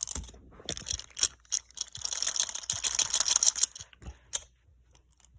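Small clicks and taps of toy train engines being handled and turned over, with a stretch of rustling about two seconds in.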